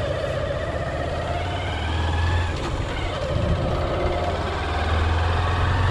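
Hero Hunk motorcycle's single-cylinder four-stroke engine running steadily as the bike rides at low speed, swelling slightly a couple of times with the throttle.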